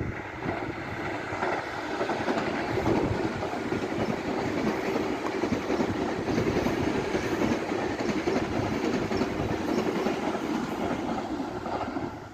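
A train passing on the rails, the rumble and wheel noise building over the first couple of seconds, holding steady, then falling away near the end.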